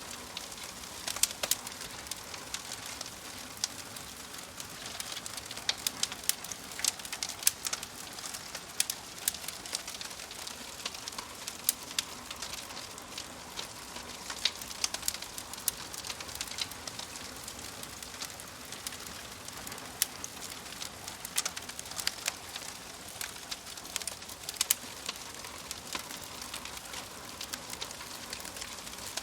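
Fireplace wood fire crackling: a steady soft hiss with frequent irregular sharp pops and snaps.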